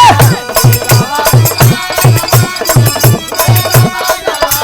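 Instrumental passage of Bhojpuri birha folk music: a hand drum keeps a steady beat of about two strokes a second under high jingling percussion, with a short melodic phrase sliding up and down near the start.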